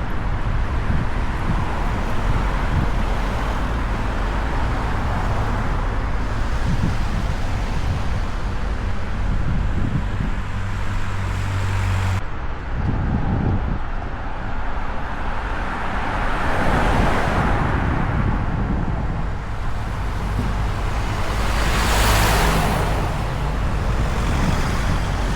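Road traffic: a steady engine hum, with vehicles passing twice in the second half.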